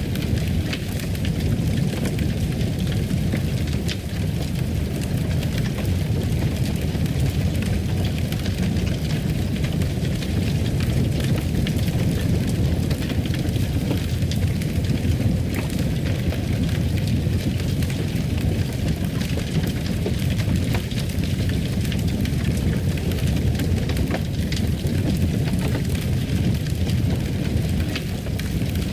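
Fire burning in a fireplace: a steady low rumble with scattered small crackles.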